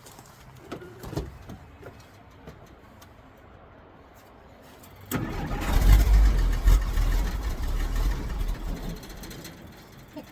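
A 1963 Jeep Gladiator's inline-six, hard to start when cold, is cranked with the choke on. After a few faint knocks it catches suddenly about five seconds in, runs loudly for about four seconds, then dies down as it stalls.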